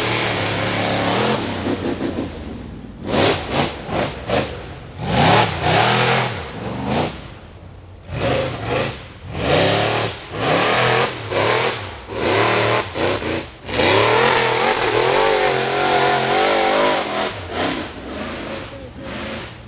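Rock bouncer buggy engine being revved hard in repeated short bursts of throttle, pitch rising and falling with each stab. Partway through it holds a longer wavering high-rev stretch, then the bursts grow fewer near the end, as a driver working a buggy up a climb would.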